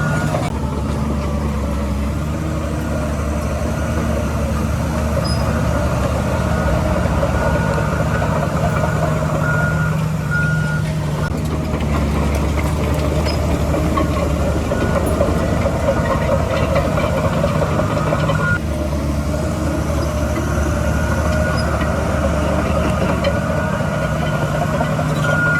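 Heavy diesel earthmoving machinery running steadily, with a reversing alarm beeping a few times at the start and again about ten seconds in.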